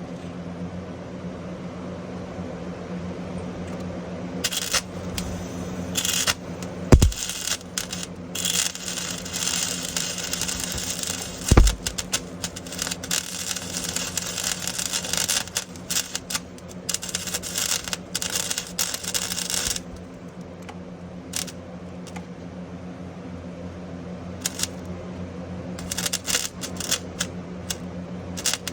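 MIG welder arc crackling in stretches of a few seconds as weld is laid on to fill a gap in a car exhaust pipe, with pauses between passes, over a steady low hum. A couple of low thumps stand out partway through.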